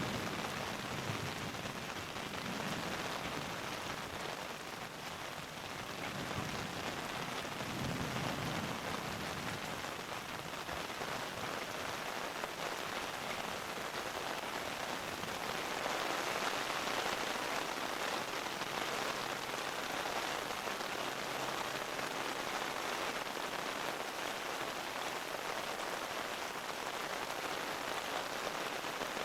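Steady rain falling, with faint low rumbles near the start and again about eight seconds in.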